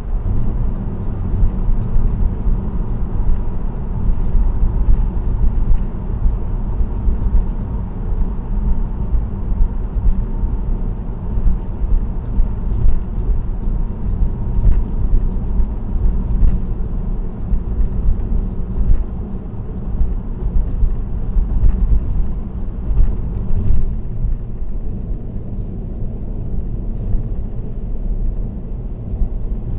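Steady road and tyre rumble of a car cruising on an expressway, heard from inside the car through a dashcam, with many light rattles and ticks over the low drone.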